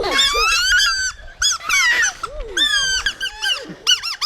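Grass whistle, a blade of grass stretched tight between the thumbs and blown, screeching in a broken run of shrill, wavering notes that swoop up and down in pitch, played as a makeshift tune. It ends in a quick string of short chirps.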